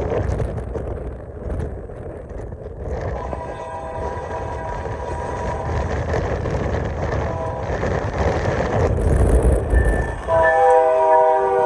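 Union Pacific diesel locomotive air horn sounding a chord in two blasts: a long one from about three seconds in, then a louder one starting near the end. A low rumble from the locomotives runs underneath.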